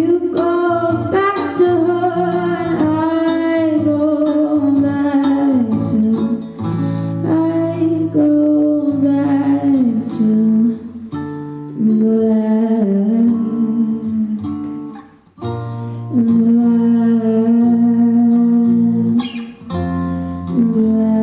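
A woman singing with acoustic guitar accompaniment: long, wavering held notes over strummed chords, with a brief break about fifteen seconds in.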